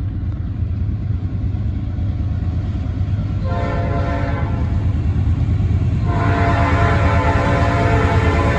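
Nathan AirChime P5 five-chime horn of an approaching Norfolk Southern AC44C6M locomotive, its bells of mixed cast. It sounds one blast of about a second, then a longer blast starting about six seconds in, over the steady low rumble of the oncoming train that slowly grows louder.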